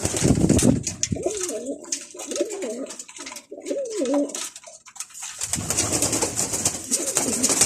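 Domestic pigeons cooing: a run of low, wavering coos in the first half, over a constant scratchy rustle. From about five seconds in, a denser rustling noise takes over.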